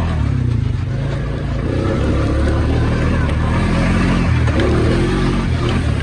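ATV engine running under throttle, its pitch rising and falling as the rider speeds up and eases off.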